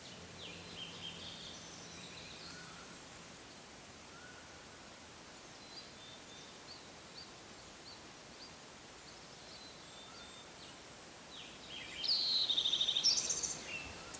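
Forest songbirds calling, with short scattered high chirps over a faint steady hiss; about two seconds before the end one bird sings a louder, rapid, trilled phrase that climbs in pitch.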